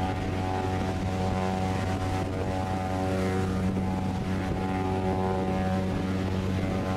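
One long, steady blast of a large ship's deep-toned horn.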